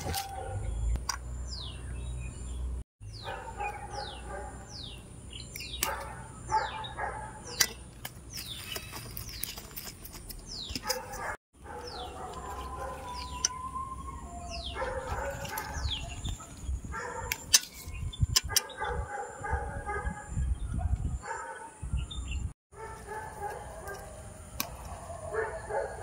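Birds chirping, with many short calls that sweep downward in pitch, over a low rumble at times. The sound drops out abruptly three times.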